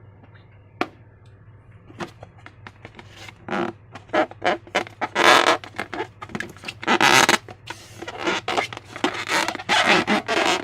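Slime being squeezed and worked by hand, making irregular squishing noises that come thicker and louder from about three seconds in.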